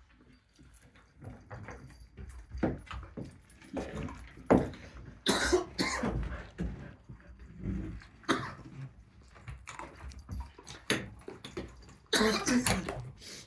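Dogs play-fighting over catnip balls: scuffling and clicking, with two short, loud, breathy huffs, one about five seconds in and one near the end.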